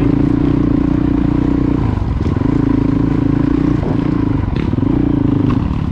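Honda CRF450L dual-sport motorcycle's single-cylinder four-stroke engine running steadily while riding, its note easing off and coming back briefly about two seconds in and again near four seconds.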